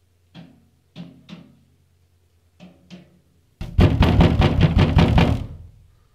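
A bird striking resonant metal with its beak, making a clanging noise. First come a few single, spaced knocks, then, just past halfway, a fast even roll of strikes lasting about two seconds.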